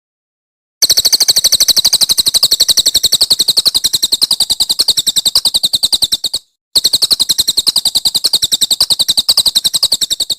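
Songbird's rapid, machine-gun-like trill of sharp high notes, about twelve a second, in two long runs with a short break between them: the 'tembakan' burst used in masteran bird-song recordings.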